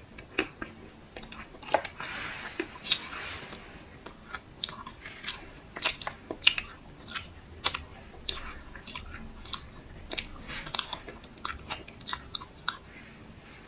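Dry clay crunching close to the microphone: many sharp, irregular crunches, with a brief crumbling hiss about two seconds in.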